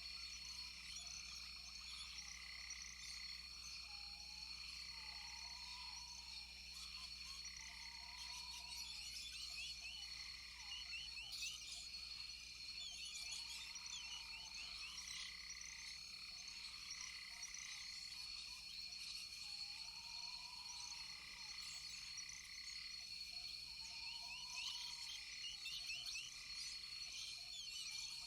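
Frogs calling in a chorus, with steady high-pitched trilling and a short rising-and-falling call that repeats every few seconds.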